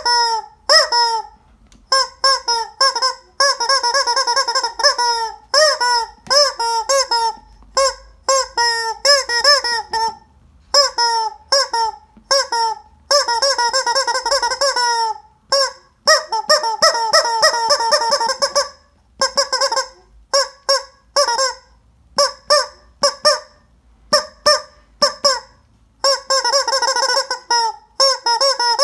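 Squeezable rubber chicken toy squeezed over and over, giving short squawks that bend in pitch. They come singly and in quick runs, with short pauses between.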